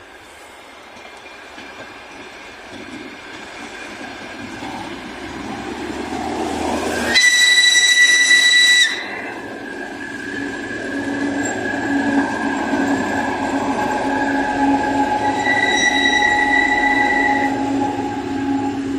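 Diesel train approaching and growing steadily louder, then sounding one loud, steady horn blast of under two seconds about seven seconds in. Running noise with a low steady hum carries on, and a quieter high tone of the same pitch sounds again for about two seconds near the end.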